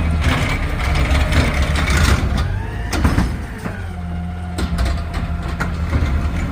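Garbage truck's engine running with a heavy low rumble, with clanks and knocks and a whining tone that falls away just before three seconds in.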